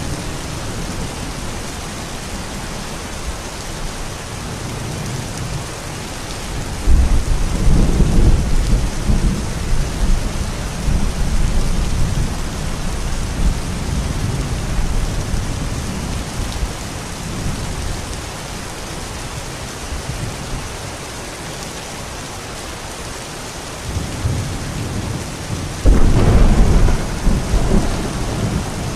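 Steady rain falling, with thunder: a long low rumble swells up about seven seconds in and fades, and another rolls in near the end.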